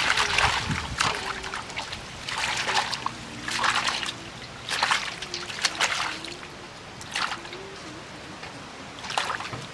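Water sloshing and splashing in short bursts, about six of them, between quieter stretches.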